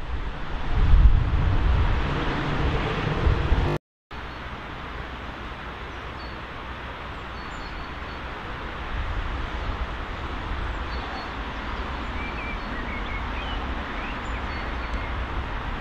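Wind buffeting the microphone over the steady rumble of a distant approaching train, broken by a brief dropout about four seconds in. After it the rumble grows slowly louder as another train approaches, with a few faint bird chirps near the end.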